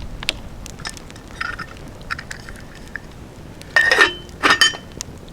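Camp cookware being handled for coffee: scattered small clicks and knocks, then two louder ringing metal clanks a little under a second apart near the end.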